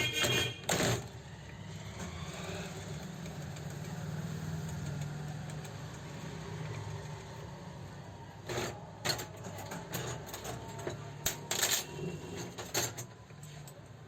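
Sharp metallic clicks and knocks from parts and tools being handled on an overlock sewing machine under repair. A steady low hum runs for several seconds in the middle.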